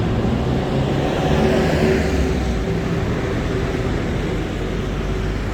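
Street traffic: a vehicle engine hums steadily nearby, and about two seconds in another vehicle passes close, its tyre hiss swelling and fading.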